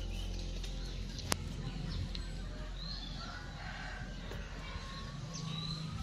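Birds chirping and calling in short, scattered notes over a low steady background hum, with one sharp click about a second in.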